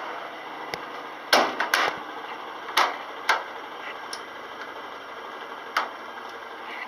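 A string of about six sharp plastic clicks and knocks, the loudest about a second and a half in, as the washing machine's removable name badge is handled and fitted back in place, over a faint steady background hum.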